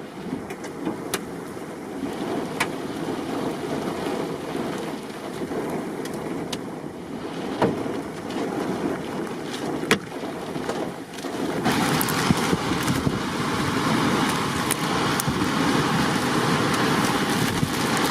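Strong wind rushing and buffeting against the microphone during a nearby tornado, with a few sharp clicks; the wind noise grows louder about twelve seconds in.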